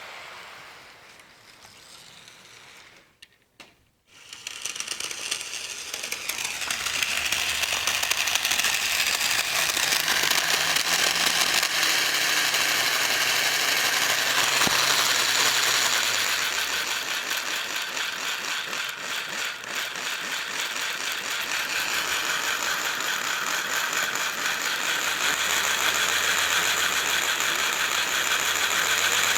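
HO scale model locomotive running with a long train: dense, rapid clicking and rattling of the gears and wheels on the track over a low motor hum. It starts after a brief lull about four seconds in and grows louder, and the hum drops in pitch midway and climbs again near the end. The locomotive is straining under a train so long and heavy that it can barely pull it.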